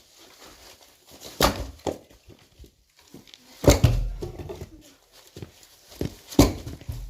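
Axe strikes splitting firewood: three sharp chops with a low thud, about two and a half seconds apart.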